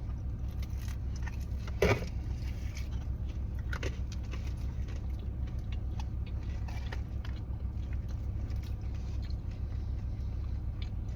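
Steady low hum of a car idling, heard from inside the cabin, with scattered small clicks and rustles of food being handled and eaten, and one louder crackle about two seconds in.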